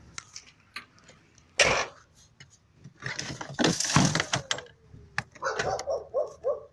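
Clatter of objects being handled and knocked about while someone searches for a can of WD-40, with one sharp knock a second and a half in. Near the end, a dog gives a few short whining yelps.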